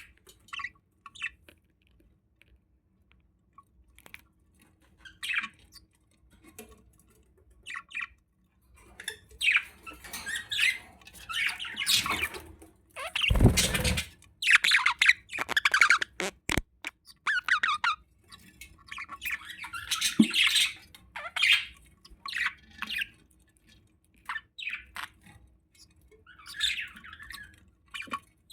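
Budgies chirping and squawking as a male budgie feeds a female: sparse short chirps at first, then a busier run of chattering calls from about a third of the way in. A brief loud rustling noise comes about halfway through.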